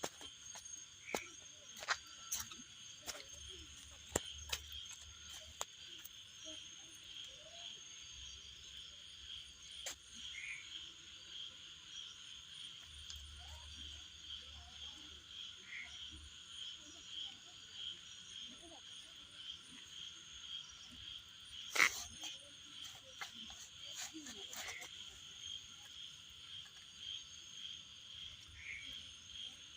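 Night chorus of insects trilling steadily in a fast, even pulse. A few frogs call briefly now and then, with scattered clicks and one louder sharp click about three-quarters of the way in.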